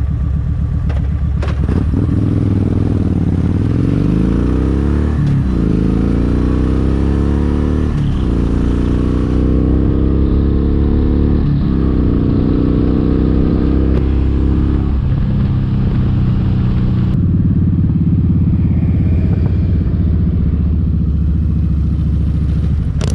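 Kawasaki Vulcan 1700 Vaquero's V-twin engine pulling away and accelerating up through the gears. Its pitch climbs and drops at each of three shifts, then it settles into a steady cruise.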